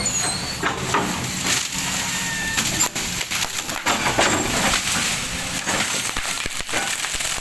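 Oil palm trunk cracking and splintering as a machine pushes it over: a run of sharp cracks over the steady running of the machine's engine.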